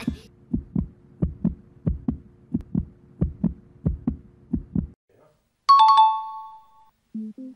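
Heartbeat sound effect: a paired low thump, lub-dub, repeating about every two-thirds of a second for about five seconds. Just under six seconds in, a bright two-tone chime rings and fades, the correct-answer signal, and music starts at the very end.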